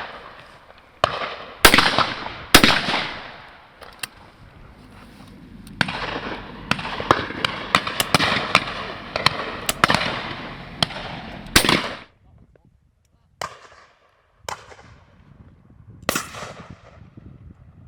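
Shotguns firing at driven game birds, a string of shots from several guns along the line, close loud reports mixed with quicker, more distant ones, each trailing a long echo.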